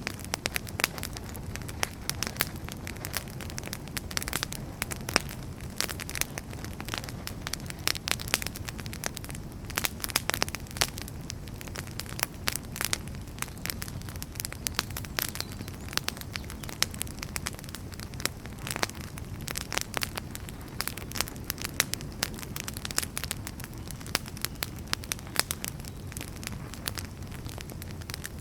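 Wood fire burning, with frequent irregular crackles and pops over a steady low rumble of the flames.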